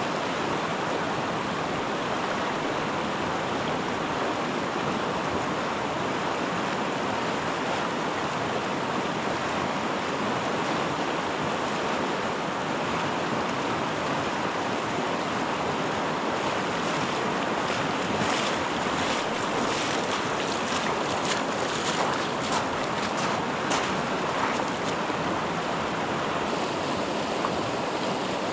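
Steady rush of river water at a ford, with a cluster of short sharp noises in the second half.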